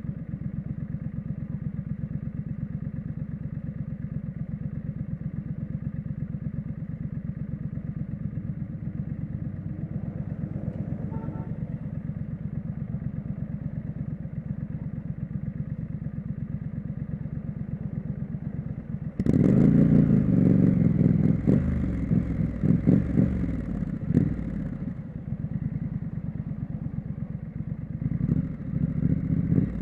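Triumph Street Scrambler's parallel-twin engine and exhaust running steadily at a low pulse. About two-thirds of the way in, the throttle opens into a much louder surge lasting several seconds, then the engine settles back, with a smaller swell near the end.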